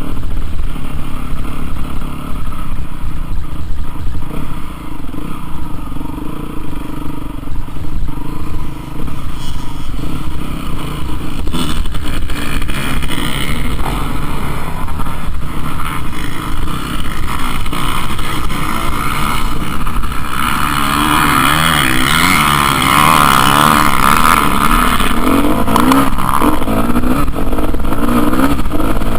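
Motocross bike engine running with heavy low rumble; about two thirds of the way in its revs rise and fall repeatedly, a wavering engine note that becomes the loudest sound.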